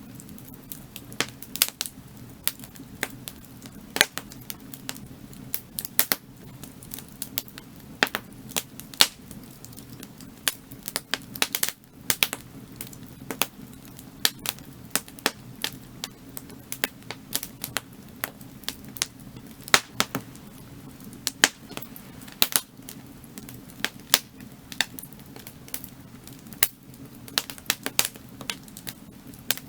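Burning firewood crackling, with irregular sharp pops, a few much louder than the rest, over a steady low rumble of the fire.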